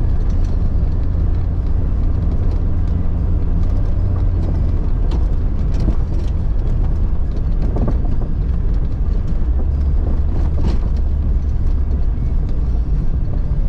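1999 Jeep Cherokee XJ driving off-road: a steady low engine and drivetrain rumble, with scattered knocks and rattles.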